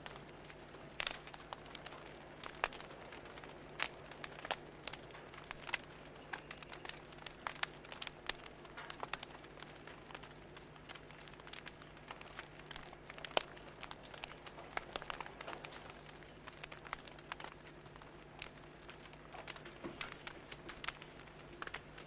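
Wood fire crackling: irregular sharp pops and snaps, some louder than others, over a faint steady low hum.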